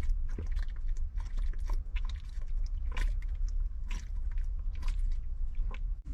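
A person drinking close by: a string of small irregular clicks and swallowing sounds over a steady low rumble.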